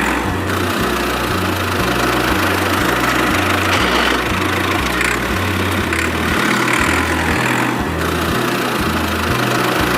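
A mini tractor's small engine running steadily, mixed with background music that has a stepping bass line.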